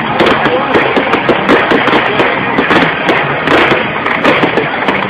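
Fireworks going off in a rapid, continuous run of bangs and crackles, over the chatter of a crowd.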